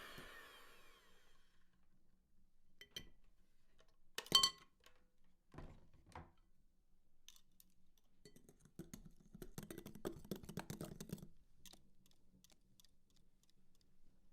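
Sparse light knocks and clinks, with one sharper knock about four seconds in and a run of quick small clicks and rattles in the middle.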